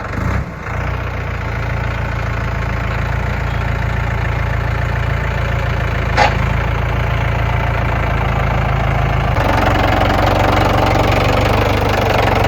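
Tractor engine running steadily under load while dragging a log on a chain, with a single sharp knock about six seconds in; about nine seconds in the engine gets louder and rougher.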